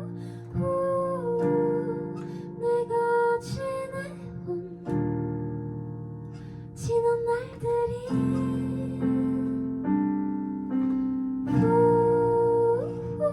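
Slow, soft keyboard music: sustained piano chords changing every second or two, with a melody line on top.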